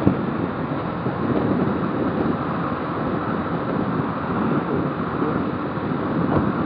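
Steady wind and road noise of a motorcycle on the move, with wind rushing over the rider's microphone.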